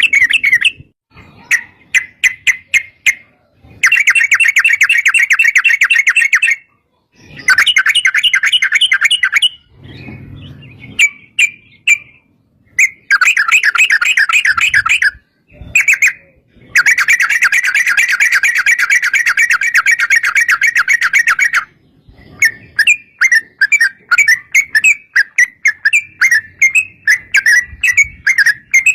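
Yellow-vented bulbul (trucuk) singing in long, fast chattering trills of two to five seconds each, broken by short pauses and strings of quick separate notes near the end.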